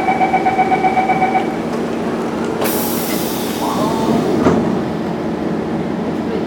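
Siemens C651 metro train: a pulsing two-pitch warning tone for about a second and a half, typical of a door-closing chime, then a short burst of air hiss about two and a half seconds in, over the train's steady rumble.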